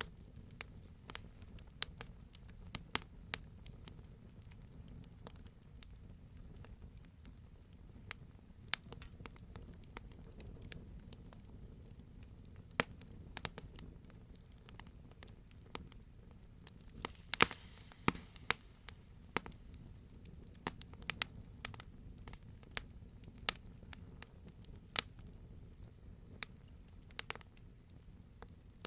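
Wood fire crackling: scattered sharp pops and snaps over a steady low rumble, with a burst of louder pops about two-thirds of the way through.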